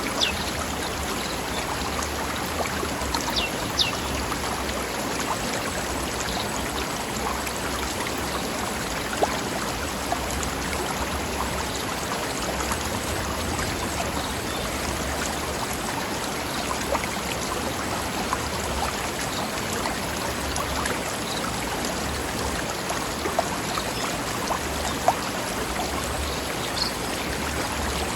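Stream running over rocks: a steady rush of flowing water with small splashes standing out now and then.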